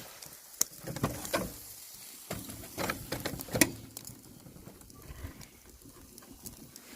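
Marinated pork grilling on a wire grill over charcoal: a run of sharp knocks and clatters in the first half, the loudest about three and a half seconds in, then a faint sizzle and crackle.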